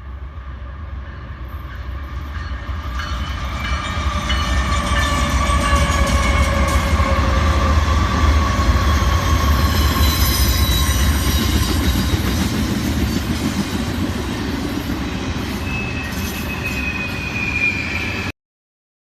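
A freight train passing: heavy rumble of diesel locomotives and rolling railcars, with a sustained ringing tone that glides slowly lower through the first half and a higher squeal near the end. The sound builds over the first few seconds and cuts off suddenly near the end.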